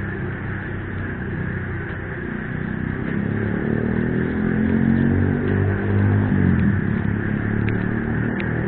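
Frogs calling steadily in the rain, while a low engine sound swells from about three seconds in and drops away near seven seconds, as of a motor vehicle passing.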